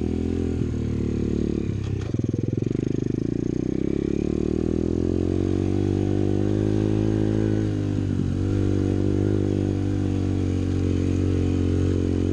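Apollo pit bike's small single-cylinder engine running under way on a dirt trail, its note climbing gradually under throttle and dipping briefly about eight seconds in before picking up again.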